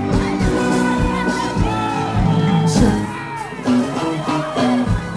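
Loud amplified live music with a steady kick-drum beat and held keyboard notes, a voice singing over it, and crowd whoops and shouts.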